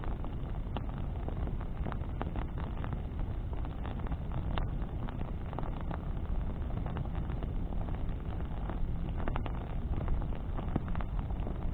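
Bonfire of burning branches crackling, with irregular sharp pops and snaps over a steady low rumble.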